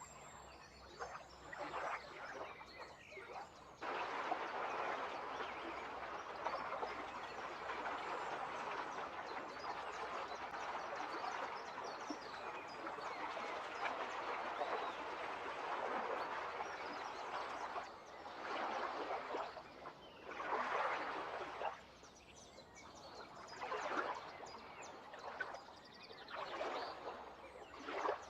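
Many birds chirping and chattering together. The din grows dense about four seconds in, then breaks into separate bursts of calls from about eighteen seconds.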